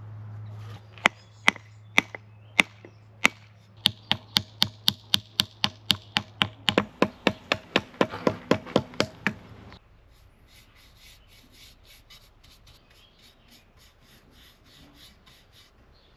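Sharp knocks on wood during the axe work: a few spaced blows, then a quick, even run of about three a second that stops abruptly. After that comes faint, rhythmic rubbing, like hand sanding. A low machine hum cuts out about a second in.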